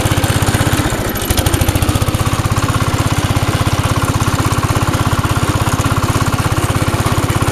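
Cub Cadet 100 garden tractor's engine running steadily at idle, with a brief dip about a second in. It is running on a homemade switch wired straight to the coil, bypassing a water-damaged ignition switch.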